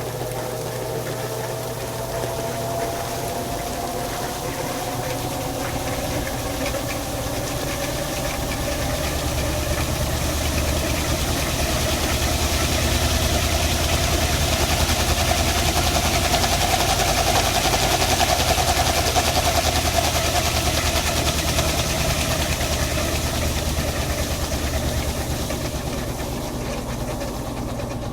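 Electrolux LTP15 top-load washing machine running with a steady low hum and a thin whine that slowly rises in pitch. The sound builds to its loudest in the middle and eases off toward the end, as the motor drives the basket in a spin.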